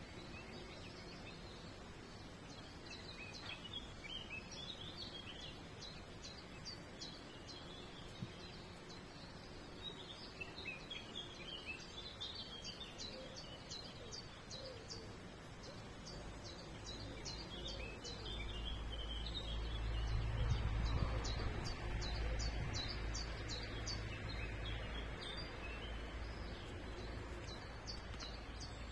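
Small songbirds chirping and twittering in many short, quick notes. In the second half a low rumble swells and then fades.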